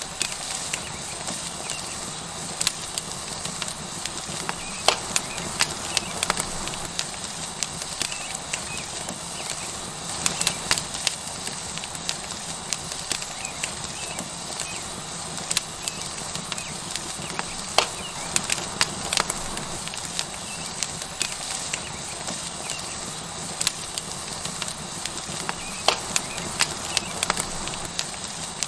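A wood fire crackling, with irregular sharp pops over a steady sizzle of a tomahawk steak searing on a hot rock.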